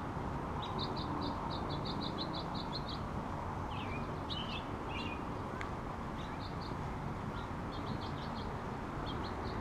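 Small birds chirping: a quick run of about a dozen short, high chirps, then scattered calls for the rest of the time, over a steady low background noise. A single sharp click comes about halfway through.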